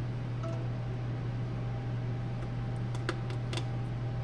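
Steady low hum with a few sharp light clicks about halfway through and near the end, as of small parts or tools being handled.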